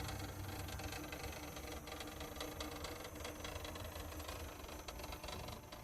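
A humidifier running with a steady low hum and a faint steady tone above it.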